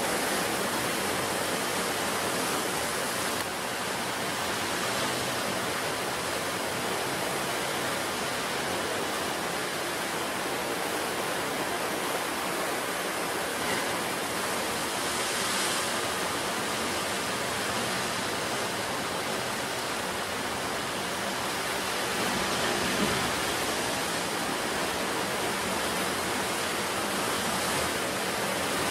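Ocean surf: a steady rush of breaking waves and foaming water, with a brief surge of hiss about halfway through and another near the end.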